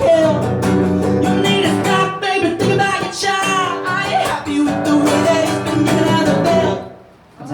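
Acoustic guitar strumming the closing bars of a song, with some wordless singing over it, stopping abruptly about seven seconds in.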